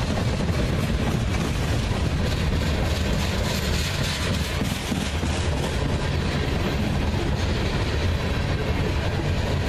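Freight train rolling past on the line, a steady rumble of railcars on the track.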